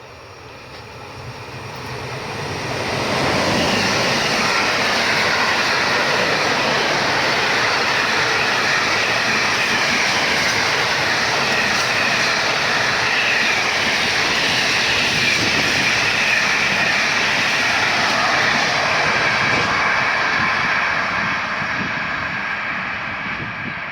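A train running past on the rails. Its wheel-and-rail noise builds over the first three seconds, holds loud and steady, and starts to fade near the end.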